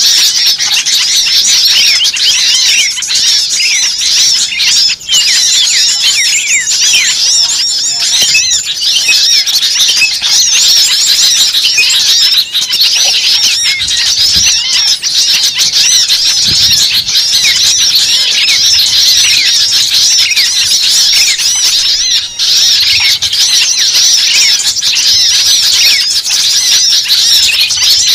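A dense chorus of many small songbirds chirping and calling over one another, a busy agitated bird-lure mix (suara pikat burung kecil ribut). The high, rapid chirps overlap without a break.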